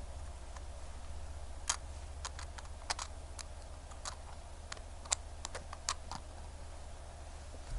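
Small hand tools clicking and tapping against a wristwatch during repair work: about a dozen light, irregular clicks over a steady low electrical hum.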